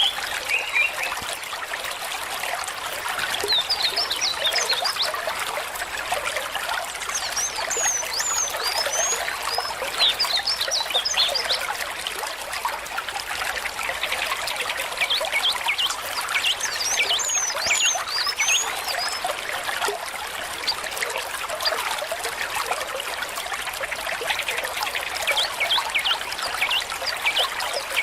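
A small stream trickling and babbling steadily over stones. Several bursts of quick, high chirping calls rise above the water.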